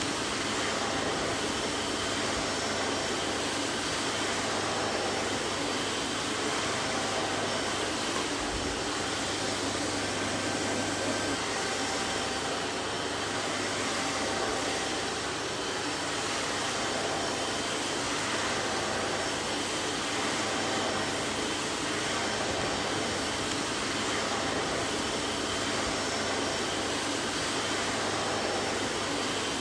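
Vacuum cleaner running steadily, a constant rushing of air with a faint motor whine and a low hum.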